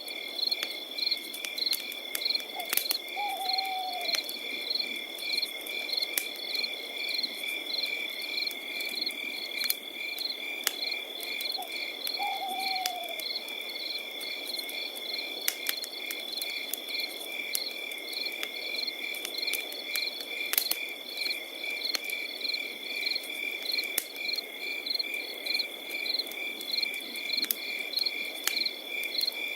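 Crickets chirping steadily in a pulsing chorus over a campfire crackling with frequent sharp pops. Twice, about 3 seconds and 12 seconds in, a short falling call sounds.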